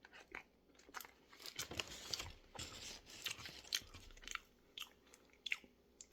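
A person biting and chewing a piece of peppermint chocolate chip cookie close to the microphone, with faint, irregular crunchy clicks of chewing.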